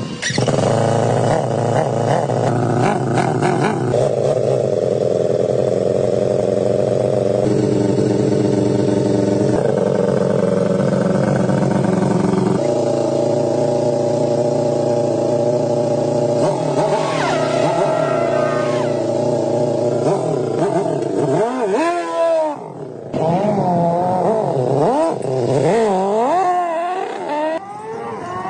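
Restored 1989 Kawasaki ZX4R motorcycle engine running at a steady speed, then revved up and down in repeated quick throttle blips in the second half.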